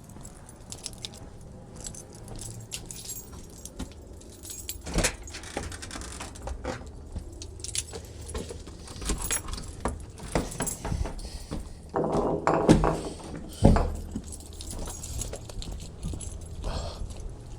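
A bunch of keys jangling while someone walks, with scattered clicks and knocks. Late on there is a denser rattle followed by one loud knock.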